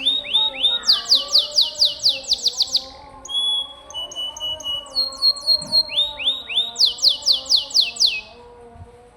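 Domestic canary singing: rapid trills of repeated falling notes, switching between several syllable types, with a short pause about three seconds in. The song stops about eight seconds in.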